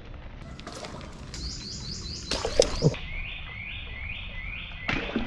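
A bird calling a quick series of short rising notes: a high-pitched run, then a lower run from about three seconds in. A couple of brief knocks sound about halfway through.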